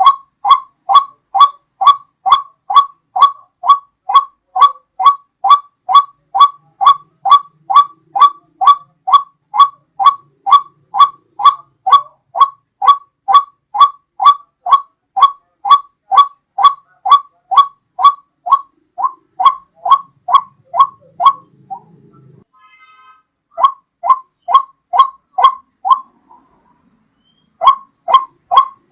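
White-breasted waterhen (ruak-ruak) call played as a bird-hunting lure: one short note repeated evenly, about two and a half times a second, breaking off twice briefly in the second half before starting again.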